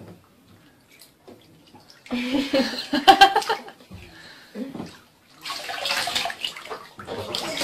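Water splashing in a bathtub in two loud bursts, the first about two seconds in and the second about five and a half seconds in.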